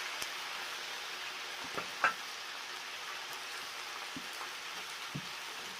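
Cabbage stir-frying in hot oil with a steady sizzle, with a few short knocks as it is stirred.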